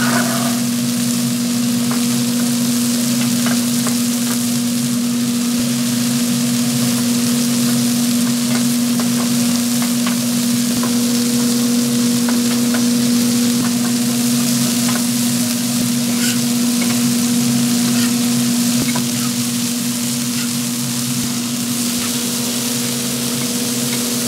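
Food frying on hot metal or in oil, a steady sizzle with scattered small crackles, over a steady low hum.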